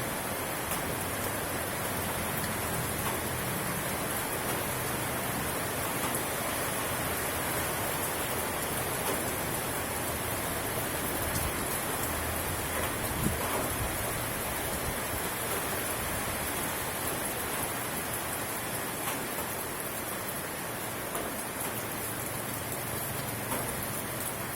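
Steady rainfall, an even hiss with scattered drop ticks and one slightly sharper tick about halfway through.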